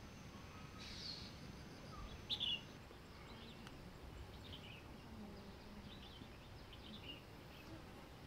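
Faint outdoor ambience with small birds chirping now and then, short high chirps scattered through it, the loudest a little over two seconds in.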